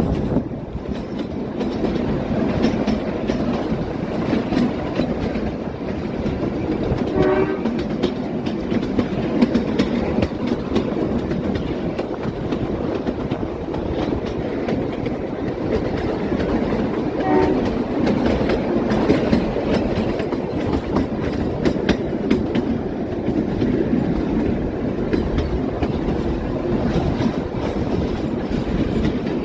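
Kalka–Shimla narrow-gauge train running, with a steady rumble and wheel clatter. Its horn gives a short blast about seven seconds in and another about ten seconds later.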